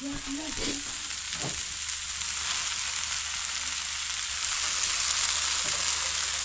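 Chow mein sizzling as it fries in a pan: a steady hiss that grows louder about halfway through.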